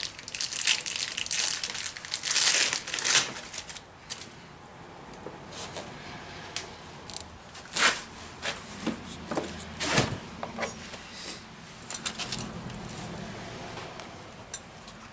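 Packing material being crinkled and torn while a generator is unboxed, dense rustling for about the first four seconds, then scattered knocks and rustles.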